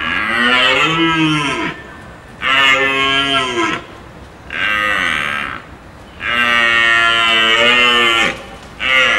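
A large hoofed animal mooing: five drawn-out calls, each rising and then falling in pitch, the longest a little past the middle and the last cut short.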